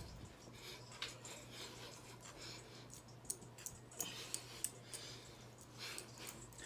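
Faint room tone: a low steady hum with scattered small clicks and rustles.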